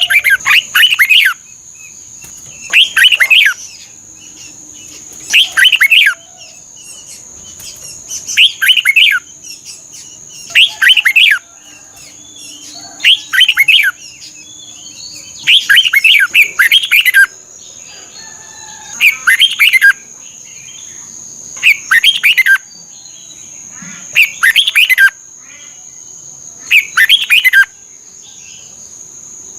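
Red-whiskered bulbul singing short, lively warbled phrases, one about every two and a half seconds. A steady high-pitched whine runs underneath.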